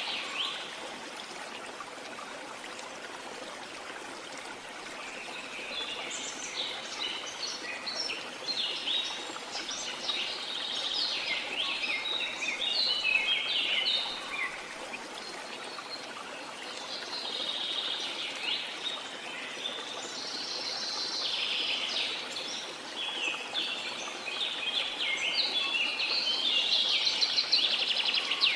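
Birds singing in quick, chirping phrases over a steady rush of running water, the song coming and going in busy bouts with a lull of a few seconds early on.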